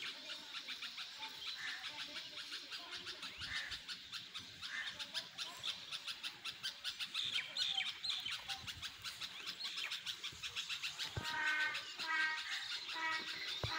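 Small birds chirping quickly and continuously, with a few short rising chirps early on. About eleven seconds in, a run of short pitched calls repeats several times.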